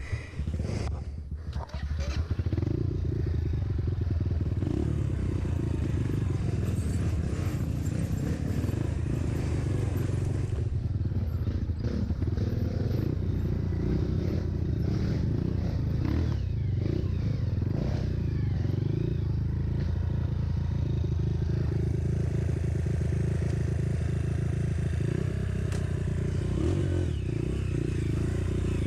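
Trail motorcycle engine running, loud and steady from about two seconds in after a quieter, uneven start.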